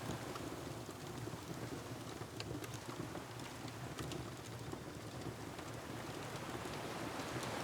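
A steady rush of ocean surf with a wood fire crackling over it, giving a few sharp pops scattered through. The surf swells louder near the end.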